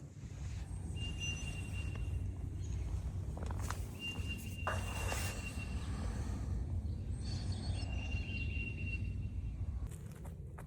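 Forest ambience: a single high whistled note, each about a second and a half long, repeats four times, with short higher chirps in between, over a low rumble of wind. A brief rustle comes near the middle.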